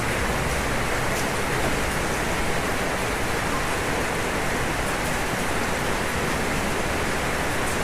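Steady heavy rain falling on a roof: an even, unbroken hiss with a few faint drop ticks.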